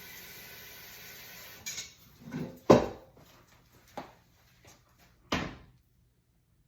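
A few knocks and clunks of kitchen things being handled, the loudest about three seconds in, with another strong one near the end. A steady hiss runs until just before the first knock, then stops.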